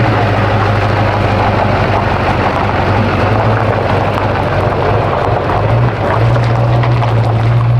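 Diesel truck engine running loud at high, steady revs under a dense rushing noise, its pitch stepping up slightly about six seconds in.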